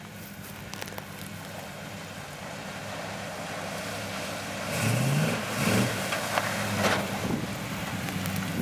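A 4x4 off-road vehicle's engine runs steadily and slowly gets louder, then revs up in quick rising surges about five to six seconds in.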